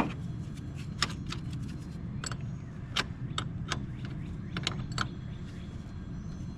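Scattered light metallic clicks and clinks as a car battery's negative terminal clamp is handled and fitted back onto its post, over a steady low background rumble.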